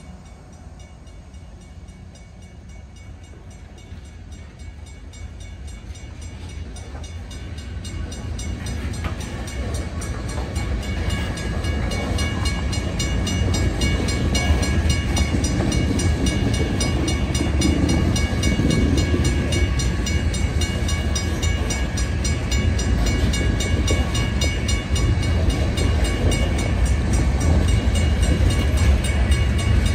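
Loaded coal hopper cars rolling past on the rails. The rumble builds over the first dozen seconds, then holds steady, with thin, steady high-pitched tones over it.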